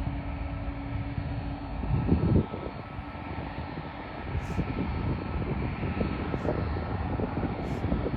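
Jet engines of a Boeing 777-200 airliner rumbling as it departs, with a short louder surge about two seconds in.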